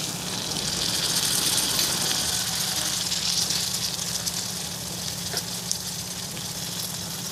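Frying sizzle from a kadhai of spiced mushrooms as chopped tomatoes go into the hot oil and are stirred with a wooden spatula. The hiss swells over the first couple of seconds and then eases, with a couple of light clicks about five seconds in.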